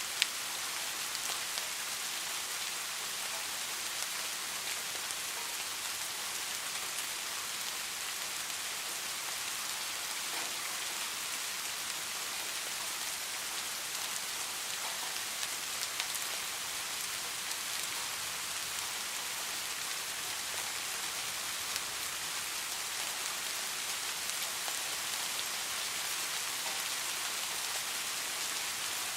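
Steady rain falling: an even hiss with scattered sharp drop ticks, and one louder tick just after the start.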